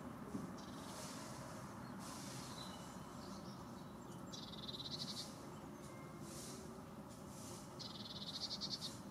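A small bird's rapid high trill, heard twice, about four seconds in and again near the end, over faint garden background hiss.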